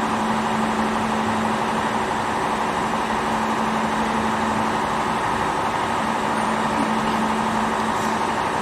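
400 W laser welding machine running with a steady hum: a low tone and a higher tone over an even hiss, unchanging throughout.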